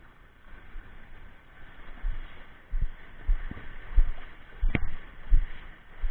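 Dull low knocks on a sit-on-top kayak's hull, coming in an uneven rhythm about one and a half a second from about two seconds in, over a faint steady hiss of wind and water.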